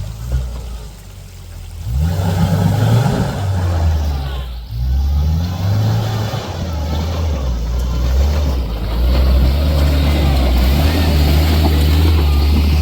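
Off-road 4x4 truck engine revving in uneven spurts, its pitch stepping up and down again and again; it comes in loud about two seconds in and briefly drops near the middle.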